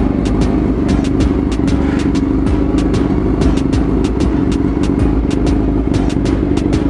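Honda CB1 NC27's 400 cc inline-four engine idling steadily, with a light ticking a few times a second over the engine note. One listener likens it to screws dancing inside the engine; the owner hears nothing unusual in it.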